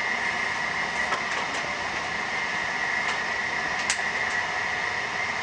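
Inside a passenger train rolling slowly through a station: steady running noise with a constant high whine, and a few sharp clicks, the clearest about four seconds in.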